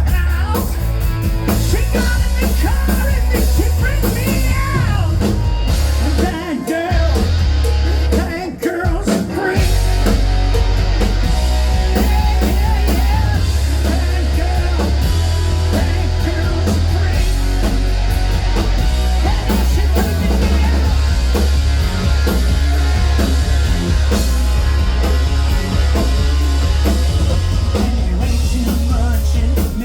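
Live rock and roll band playing: electric guitar, bass and drum kit with a singing voice. The bass and drums drop out briefly around seven to nine seconds in, then the full band comes back.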